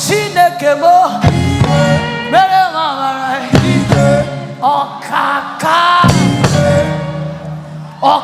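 Live gospel praise music: a high lead voice singing melismatic phrases over a band with a steady bass line.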